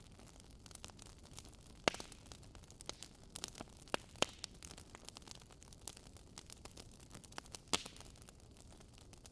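Campfire crackling: irregular sharp pops and snaps over a faint steady hiss, the loudest pops about two seconds in and again about eight seconds in.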